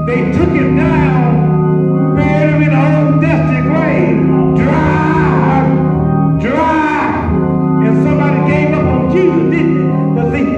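Church music: an organ holding sustained chords with a voice singing over it.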